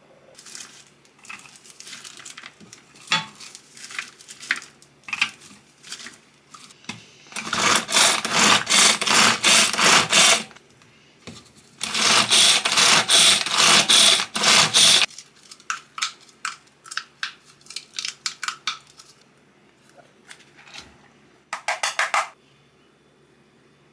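Handling sounds: scattered clicks, taps and clinks, with two stretches of a few seconds each of rapid, evenly spaced strikes, and a short burst of taps near the end.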